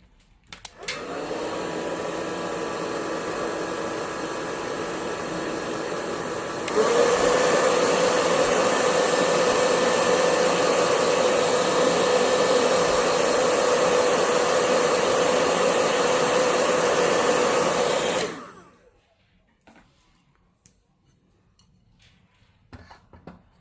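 Hair dryer blowing to dry the wet ink and colour on a painting. It starts about a second in, gets suddenly louder about a third of the way through, and cuts off with a few seconds left.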